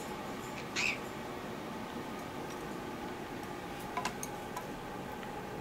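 Cape parrot giving a single short squeak about a second in, then a few faint clicks around four seconds in, over a steady low room hiss.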